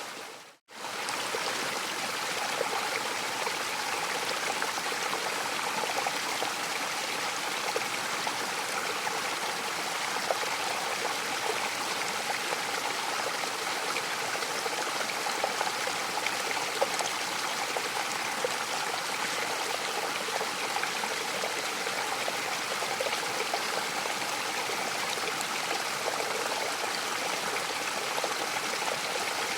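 Mountain waterfall: a steady, even rush of falling water with small splashes through it. About half a second in, the sound dips almost to silence and fades straight back in.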